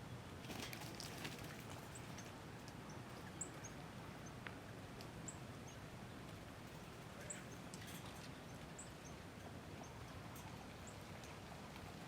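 Outdoor ambience with a steady hiss and a small bird giving short, high chirps at irregular intervals, often about a second apart.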